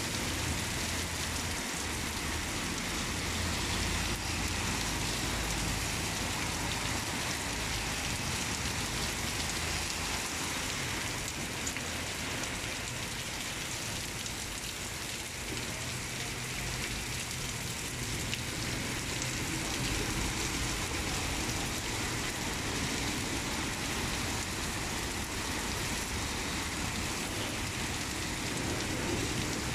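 Heavy rain pouring steadily onto a paved road and wet concrete: a dense, even hiss, with the low rumble of a car driving through the wet street now and then.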